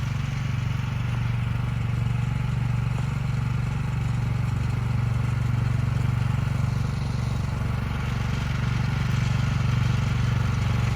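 A snow blower's small engine running steadily under load.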